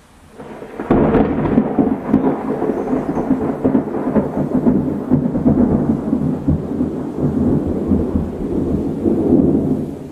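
Thunder: a clap breaks sharply about a second in and rolls on as a long, loud rumble, easing off near the end.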